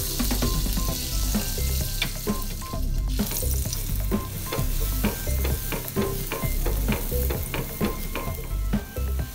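Butter sizzling and crackling on a hot nonstick tawa as a besan-batter-coated bread pakoda shallow-fries in it, with a steady hiss and frequent small pops. Background music plays faintly underneath.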